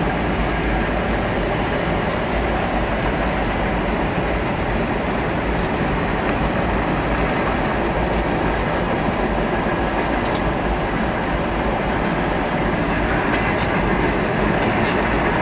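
Freight train cars rolling past on the rails: a steady rumble of wheels on track, with occasional faint clicks.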